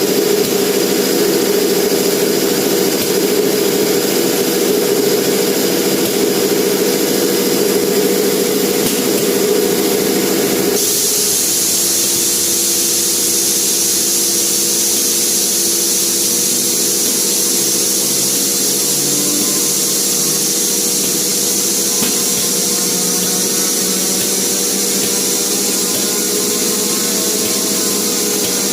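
Air compressor running steadily with a constant motor hum and a high hiss. About eleven seconds in, the hum drops back and the high hiss grows louder and carries on steadily.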